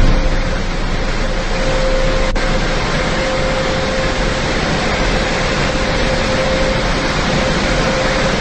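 Automatic car wash machinery running: a steady rushing hiss with a steady whine held through it.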